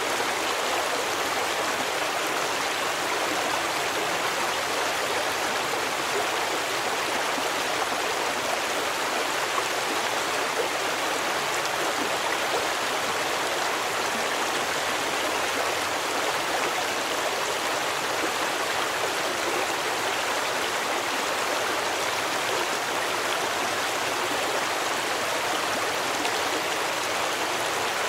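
Stream water running steadily over stones, an even rushing and babbling with no breaks.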